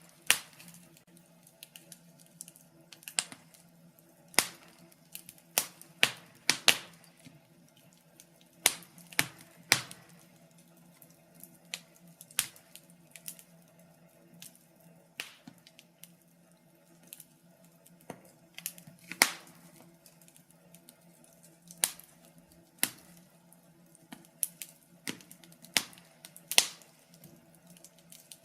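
Wood fire in a fireplace crackling, with sharp, irregular pops and snaps about once a second, some louder than others, over a faint steady low hum.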